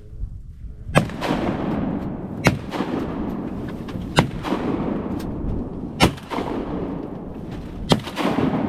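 Five shotgun blasts from duck hunters firing at a flock, spaced about one and a half to two seconds apart, over a steady rushing noise.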